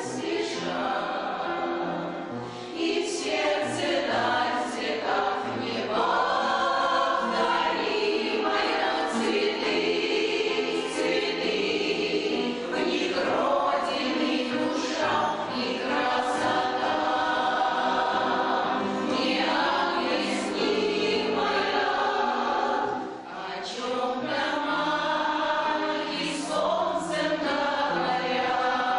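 Community veterans' choir singing a song in chorus, with sung words clearly articulated. The singing is steady in level, with one short dip between phrases about three-quarters of the way through.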